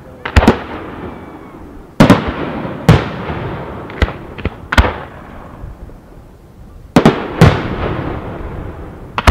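Fireworks display: a series of sharp bangs from aerial shells, some coming in quick pairs, every one to three seconds. Each bang trails off in a long rolling echo.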